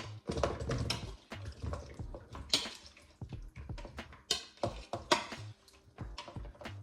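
Irregular clinks and knocks of bowls and a serving spoon as juicy fruit salad is scooped from one bowl into another, with wet sounds of the fruit and its juice.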